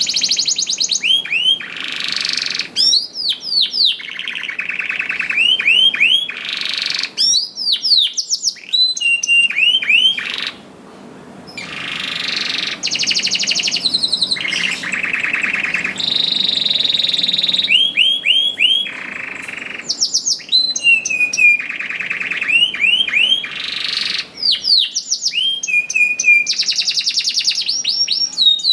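Domestic canary singing a long, continuous song of fast trills and rolls, with runs of repeated down-sweeping notes. There is a short break about ten seconds in.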